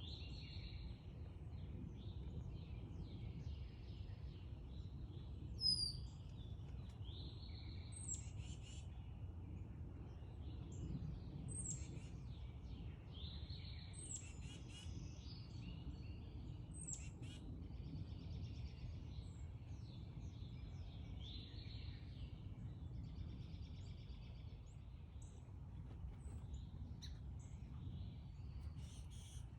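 Several songbirds chirping and calling over a steady low background rumble. One sharp whistle sliding down in pitch, about six seconds in, is the loudest call.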